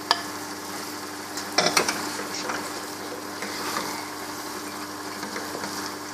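Chicken mince sizzling in a pan of gravy as it is stirred, with a utensil knocking against the pan once at the start and several times in quick succession about a second and a half in.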